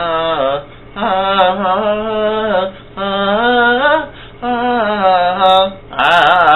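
A voice singing long wordless held notes with vibrato, five phrases with short breaks between them. A faint steady low hum runs underneath.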